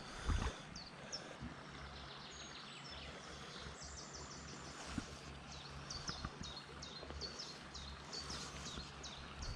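A small songbird singing, a quick series of short high notes repeated over and over through the second half, over the faint wash of a shallow stream. There is a soft knock just after the start.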